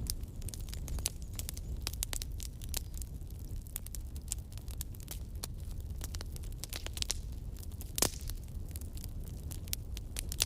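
Wood campfire crackling, with frequent small irregular pops over a steady low rumble, and one louder pop about eight seconds in.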